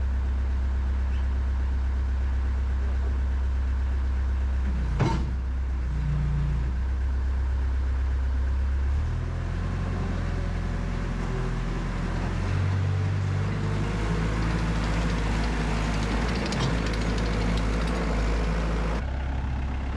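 2004 Cat 247 skid steer's diesel engine running steadily after a cold-weather start. There is a sharp knock about five seconds in, and the engine note shifts near nine seconds and again near the end.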